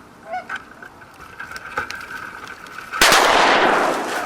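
A single close shotgun blast about three seconds in, loud and ringing out for about a second. A faint quack comes near the start.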